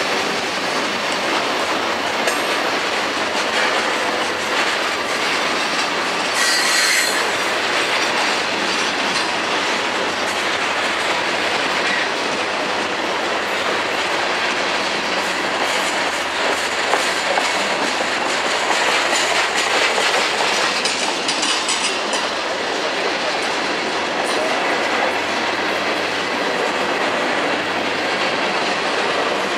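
Freight train of tank cars and covered hoppers rolling past close by: a steady rumble and clatter of steel wheels on the rails, with a brief high-pitched wheel squeal about seven seconds in.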